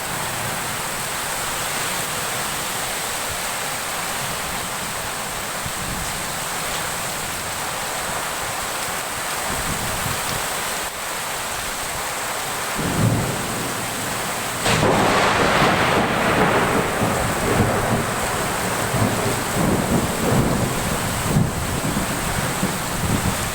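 A heavy rainstorm: steady hiss of downpour. About 13 seconds in, a low rumble of thunder sets in, and about two seconds later it swells louder and keeps rumbling unevenly.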